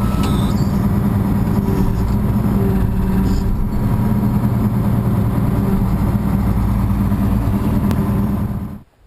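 Farm tractor engine running steadily, cutting off abruptly near the end.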